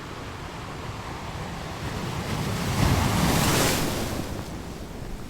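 Ocean waves on a beach: one wave builds, crashes about three seconds in, and washes back.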